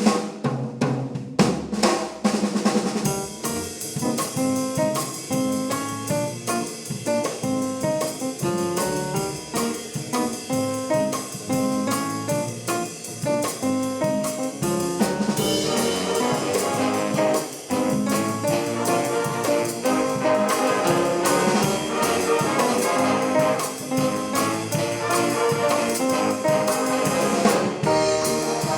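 High school swing band playing a jazz tune, with brass and drum kit, starting suddenly.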